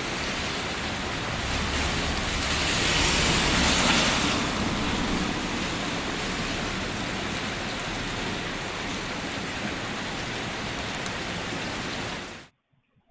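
Steady heavy rain falling, swelling louder for a couple of seconds early on, then cut off suddenly near the end.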